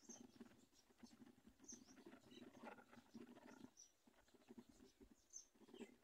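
Near silence: faint rustling with a few thin, short high chirps from birds at the nest.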